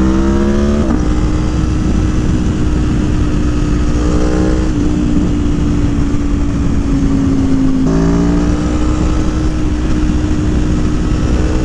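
Aprilia Tuono V4 Factory motorcycle with a Stage 3 engine kit, heard from the rider's seat under way: the revs climb in the first second, then the engine runs at a steady pitch over heavy wind rush. The engine note breaks and drops about eight seconds in, then steadies again.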